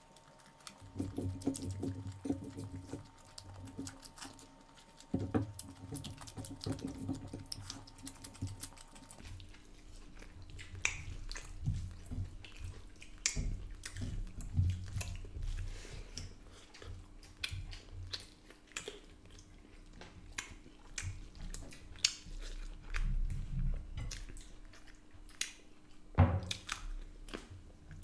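Close-miked chewing and biting of mutton leg curry with rice, the meat tough: irregular wet clicks and mouth noises, with fingers working rice and curry on the plates. A faint steady hum sits underneath, and a louder sharp knock comes near the end.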